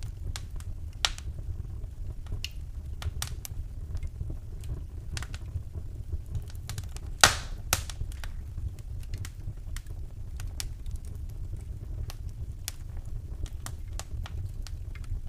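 Wood fire burning in a fireplace: irregular crackles and sharp pops over a low steady rumble, with the loudest pop a little past the middle.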